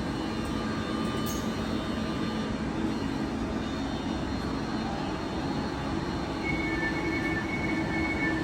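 TransPennine Express train at the platform, running with a steady hum and rumble. An on-and-off high two-pitch beeping starts near the end.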